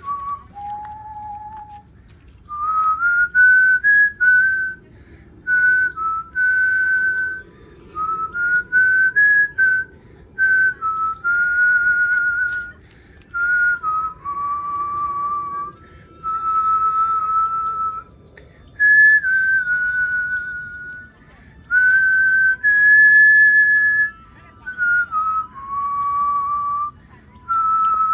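A person whistling a slow tune in held notes, each about half a second to two seconds long, with short pauses and small upward slides into some notes. A faint steady high-pitched tone sounds underneath.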